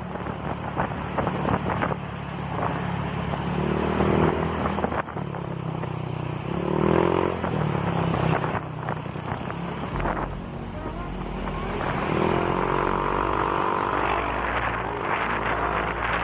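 Honda Click scooter with an aftermarket exhaust pipe, its single-cylinder engine running steadily while riding. The engine note rises and falls a few times.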